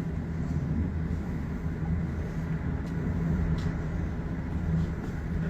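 Steady low rumbling roar of a nearby tornado, even in level throughout.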